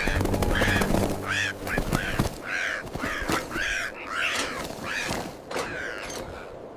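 Crows cawing over and over, a string of short harsh calls in quick succession, over a low droning sound that stops about two seconds in.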